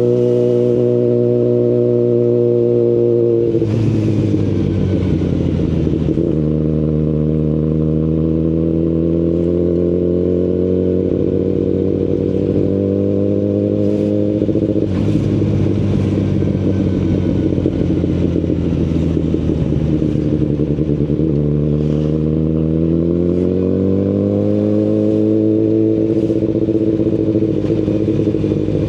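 Kawasaki Ninja ZX-10RR inline-four engine through an Akrapovic Evolution Line carbon full exhaust, under way on the road. The engine note climbs as it accelerates and drops sharply twice when the throttle closes, with a sharp crack at each drop.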